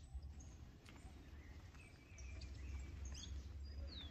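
Faint outdoor ambience: small birds chirping in short, scattered calls over a steady low rumble, with a falling whistled call near the end.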